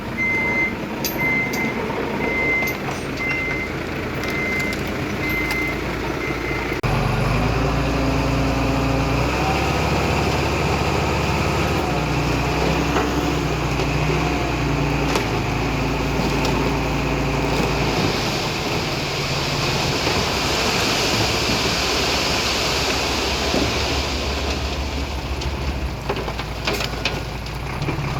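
A truck's reversing alarm beeping over a diesel engine, stopping about six seconds in. A heavier, louder diesel engine of the earthmoving machinery then runs steadily under load.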